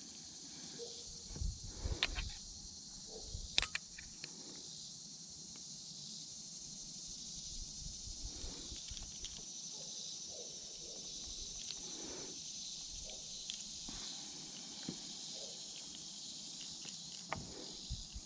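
A steady, high-pitched chorus of insects, crickets or similar, with a few sharp knocks and handling sounds, as of a fish or gear being handled in a kayak.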